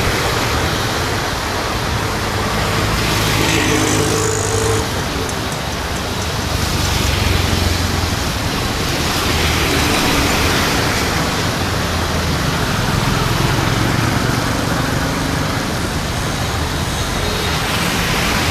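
Road traffic on a rain-wet street: several vehicles pass, rising and fading one after another over a steady hiss of rain.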